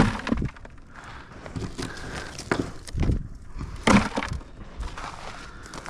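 Old chimney bricks being knocked loose and pulled off the last course, a series of irregular knocks and clatters of brick on brick, the loudest about four seconds in.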